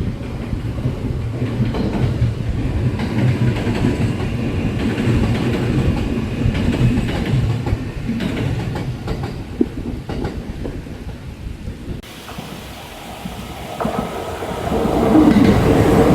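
Kintetsu electric train passing, its wheels rumbling and clacking over the rail joints. The sound breaks off abruptly about twelve seconds in, and a train grows loud near the end.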